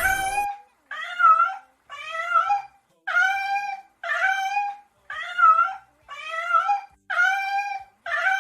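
A small animal's high call repeated about once a second, eight times, each call short and slightly wavering.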